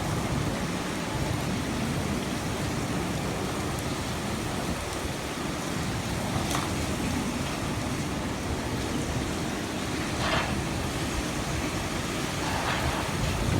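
Typhoon wind and heavy rain making a steady, dense rushing noise, with a few short, sharper sounds rising above it partway through.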